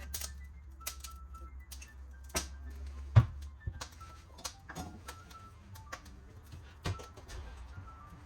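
Wood fire crackling and popping inside a cast-iron wood-burning stove, with irregular sharp cracks and one louder knock about three seconds in. The wood is damp, which the owner says gives it more of this popping.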